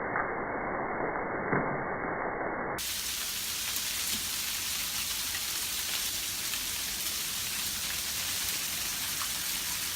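Freezing rain and sleet falling in an ice storm: a steady hiss with faint scattered ticks of ice hitting surfaces. About three seconds in, the sound changes abruptly from a dull, muffled hiss to a brighter, thinner one.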